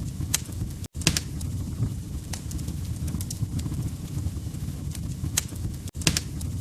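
Log fire crackling: a steady low rumble of burning with frequent sharp pops and snaps. The sound cuts out for an instant twice, about five seconds apart.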